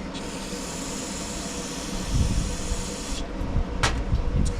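A steady pressurised hiss, like a can of carburetor cleaner or an air nozzle blowing through carburetor parts, starts abruptly and cuts off sharply after about three seconds. Two short clicks follow near the end, over a steady low hum.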